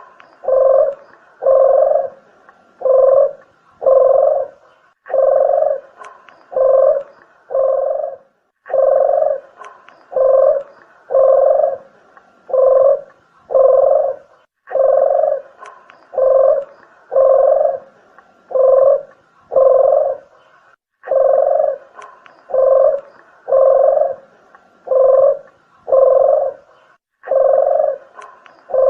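Deruk (puter geni) dove cooing, a bird-lure call: low hollow coos about one and a half a second, in runs of about six with a short break every six seconds or so. The sound is thin and cut off at the top, like a played-back recording.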